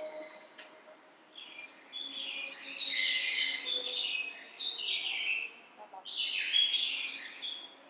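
Small birds chirping and calling in several short bursts, loudest about three seconds in and again near six seconds.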